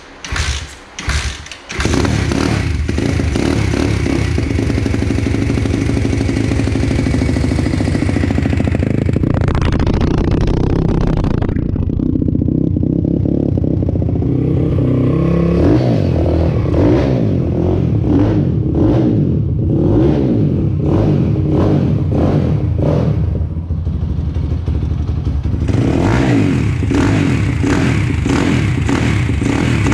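Brand-new Apollo RFN 140cc pit bike's single-cylinder four-stroke engine being started for the first time on fresh fuel: a few short bursts in the first two seconds, then it catches and runs fast and high for about ten seconds. After that it drops to a lower idle with the revs rising and falling now and then.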